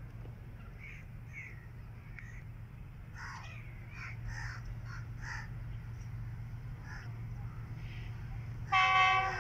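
Freight train wagons rolling past with a steady low rumble, while crows caw again and again. Near the end a train horn sounds suddenly and loudly, a sustained blast that is the loudest thing heard.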